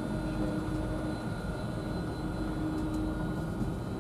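Interior hum of a Virgin Trains Class 390 Pendolino electric train: a steady low rumble with a few faint steady whining tones over it.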